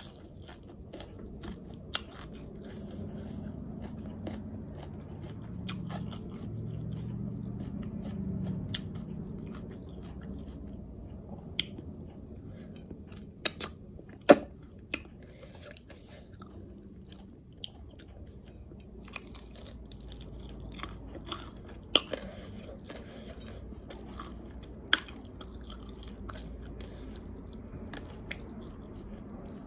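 Close-miked eating: steady chewing with wet mouth smacks and a scatter of sharp crunchy snaps and clicks, the loudest about halfway through, as sauce-glazed Korean fried chicken wings and fresh greens are bitten and chewed.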